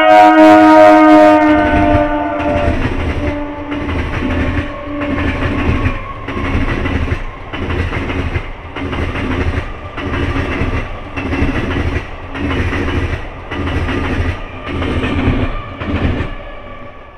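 Old Eastern Railway electric multiple unit local train passing close by: its horn sounds at the start, dropping in pitch as it goes past, then the coaches' wheels clatter over the rail joints in a steady rhythm about once a second, stopping near the end.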